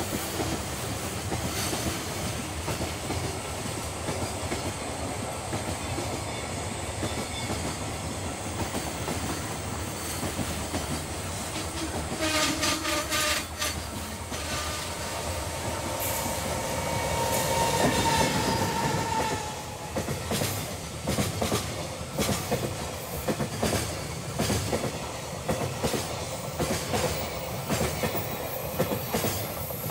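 Container freight train passing close, its wagons rumbling and the wheels clicking rhythmically over the rail joints. About halfway through, a train horn sounds: a short blast, then a longer, louder held tone.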